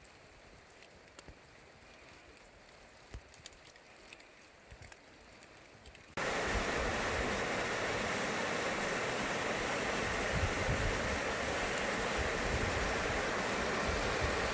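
Faint rain with scattered drip ticks, then about six seconds in a sudden change to the loud, steady rush of a mountain valley stream.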